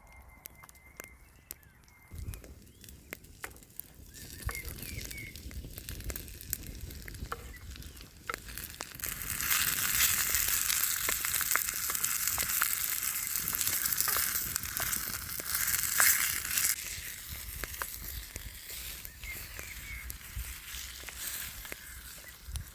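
Food sizzling in a pan over a campfire. The sizzle builds, is loudest from about ten seconds in, and eases off a few seconds later, with scattered crackles throughout.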